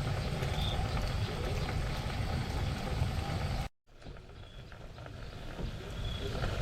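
Low rumbling outdoor ambience, like wind buffeting the microphone, with faint short high chirps every second or so. It cuts out abruptly just past halfway, then builds back.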